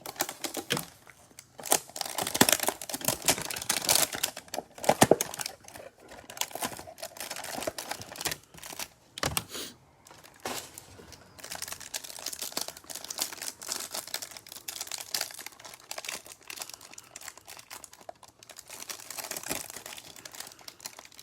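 Packaging of a Select football trading-card hanger box crinkling and tearing as it is opened by hand, then the cards inside being handled with steady rustling. The loudest crackling comes about two to five seconds in.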